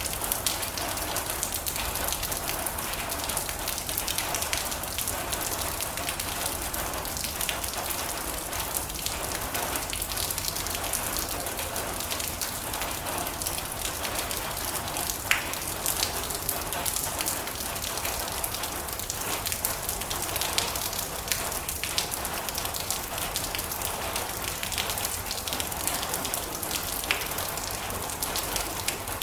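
Steady heavy rain on a metal roof: a dense hiss of drops with scattered sharper ticks of single drops hitting the metal.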